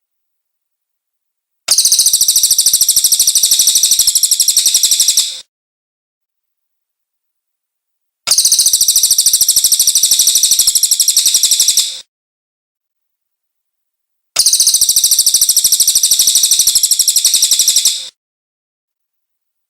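Cililin bird song: three long, rapid, high-pitched trills of nearly four seconds each, separated by pauses of two to three seconds, each trill a fast even run of identical notes.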